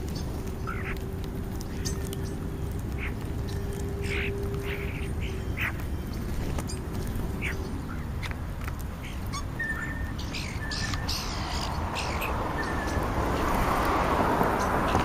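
Wild birds at a feeding spot calling in short, harsh notes, one every second or so. A steady low hum runs under the first half, and a rushing noise swells near the end.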